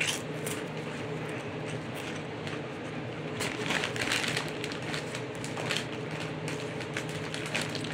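Crunchy fried pork rinds being chewed close up, an uneven run of crackling crunches over a steady low hum.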